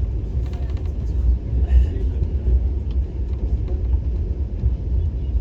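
Steady low rumble inside a moving Vande Bharat Express coach, an electric multiple-unit trainset running along the track, with a few light clicks about half a second in and again near two seconds.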